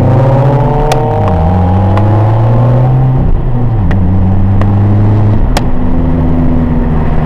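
Subaru flat-four engine heard from inside the car, accelerating hard through the gears. The revs climb, then dip at upshifts about a second in and again about four seconds in, and settle to a steadier, lower drone near the end as the car backs off to cruise.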